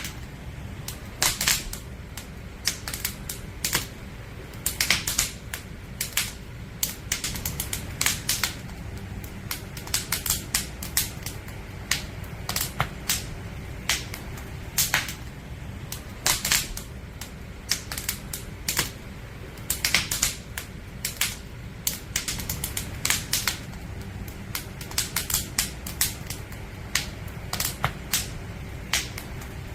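Wood fire burning: logs crackling and popping with irregular sharp snaps, several a second, over a low steady rumble of the flames.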